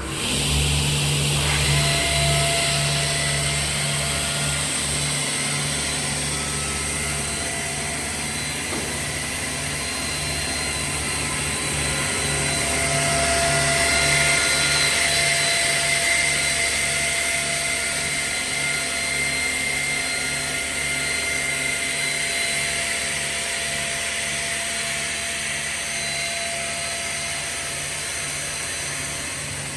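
Sliding-table panel saw running, its 5.5 kW main motor spinning the main blade and scoring blade: a steady machine whine over a low hum that pulses evenly.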